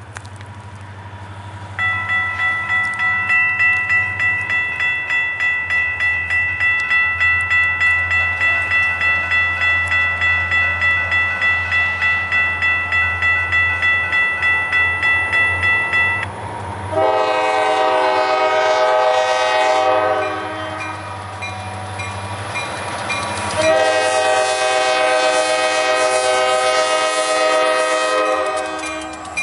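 Safetran Type 3 electronic crossing bells start about two seconds in and ring rapidly at a high pitch, around three strikes a second, over a low locomotive rumble. Later the locomotive's horn sounds two long blasts, with a short gap between them.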